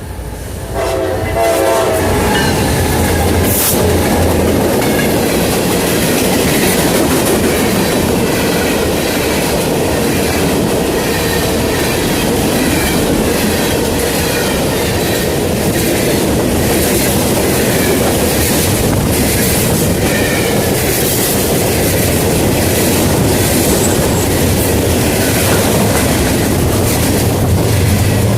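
A locomotive horn chord sounds briefly at the start and stops, then a train passes close by: a steady, loud rumble of rolling cars with wheels clacking over the rail joints.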